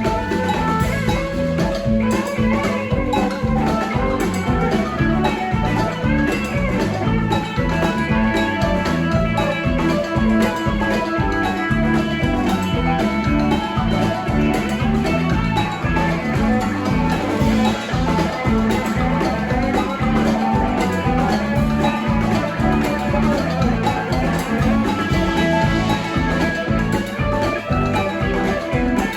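Live band playing an instrumental passage: guitar over bass and drums with a steady beat.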